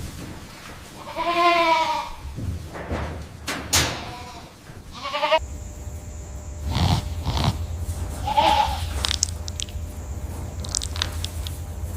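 Goats bleating: a long, wavering bleat about a second in, then shorter bleats around five and eight and a half seconds, with scattered knocks and rustling in between.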